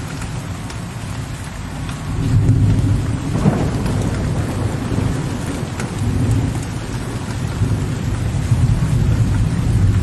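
Steady rain with low, rolling thunder. The rumble swells about two seconds in with a sharper crack soon after, then rumbles on and swells again near the end.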